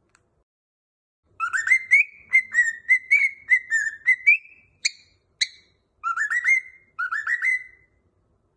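Cockatiel whistling a song: after a short pause, a quick run of rising whistled notes, two sharp chirps, then two short rising whistled phrases.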